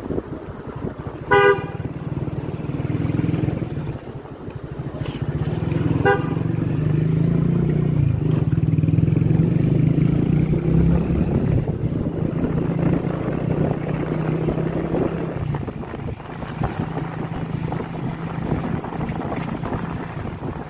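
Motorcycle engine running steadily while riding in street traffic, with a short, loud vehicle horn honk about a second and a half in and a shorter, fainter honk about six seconds in.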